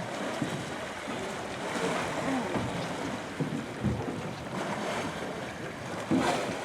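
Water sloshing and lapping against a small boat's hull, with wind buffeting the microphone; a brief louder knock or splash comes about six seconds in.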